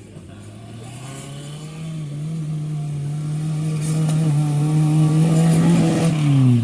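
Off-road vehicle's engine running hard at steady revs, growing louder as it comes closer, then the revs fall away just before the end.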